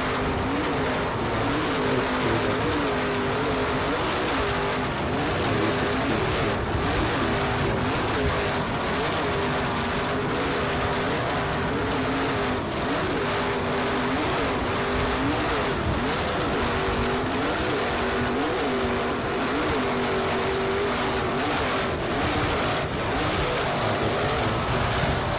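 Vehicle engine running under a steady rushing noise, its pitch rising and falling again and again, about once a second.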